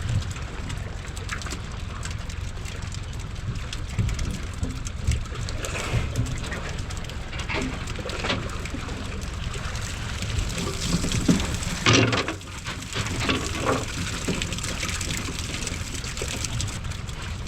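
Water splashing and dripping over a steady low rumble, with a few louder splashes, the biggest about twelve seconds in.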